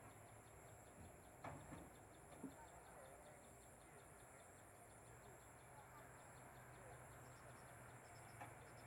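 Faint insect chorus: a steady high-pitched buzz with a fast pulsing trill, with a few brief sharp sounds in the first few seconds and one near the end.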